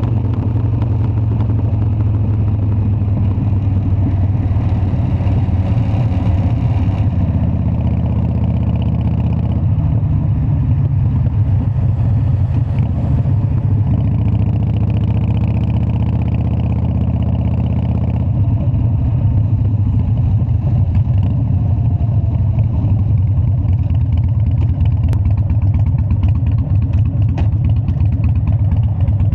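Harley-Davidson Dyna's air-cooled V-twin engine running with a steady low rumble, its pitch shifting a few times as the revs change.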